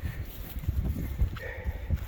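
Wind buffeting the microphone in uneven gusts, a low rumble, with a few faint short higher sounds over it.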